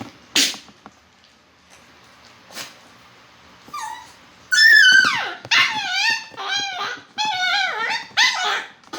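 Poodle whining: one short soft whine about four seconds in, then a quick run of six or seven high-pitched whines and yelps, each falling in pitch. A brief knock sounds near the start.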